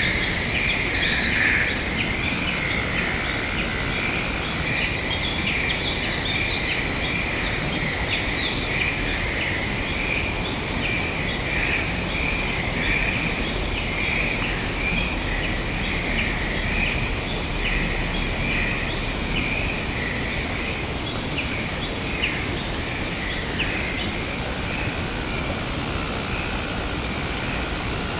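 Birds calling outdoors over a steady noisy background. A continuous chattering runs throughout, and rapid high chirps come in the first second and again from about four to eight seconds in.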